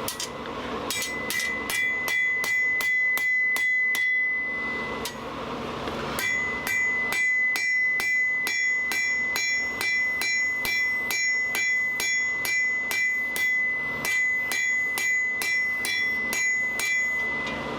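Blacksmith's hammer striking hot steel on an anvil in a steady rhythm of about three blows a second, with the anvil ringing under the blows; the smith is drawing the stock out thinner. The hammering pauses for about two seconds near the middle, then resumes.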